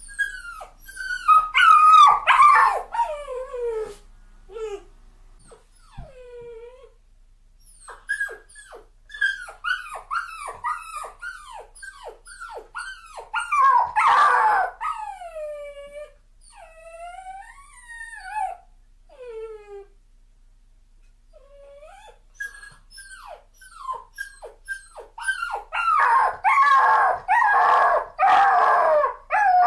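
Dogs crying and whining: a run of short, high whimpers that each fall in pitch. They come in bursts with pauses, and near the end several calls overlap and are loudest.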